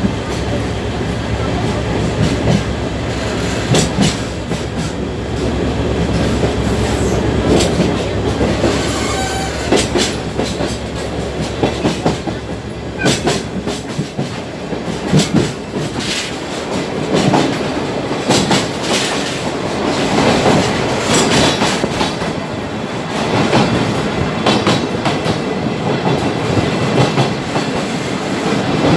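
Sagano Trolley Train carriage running on the rails, its wheels clattering and knocking over rail joints with a continuous rumble. A steady low hum underneath drops away about halfway.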